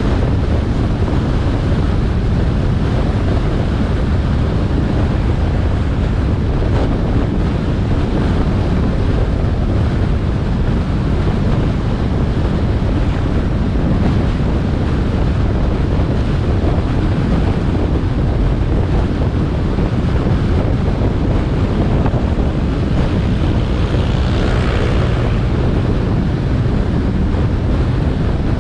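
Wind buffeting the camera microphone on a moving motorbike, over the steady drone of the engine and road noise. About three-quarters of the way through, a brief brighter hiss rises over it.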